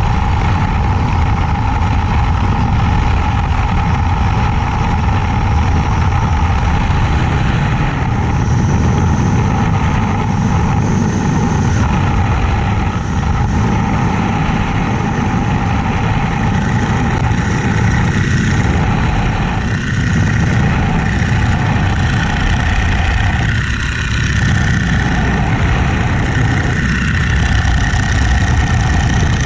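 Boeing-Stearman Model 75 biplane in flight, its radial engine and propeller running steadily, with small shifts in pitch and a few brief dips in level.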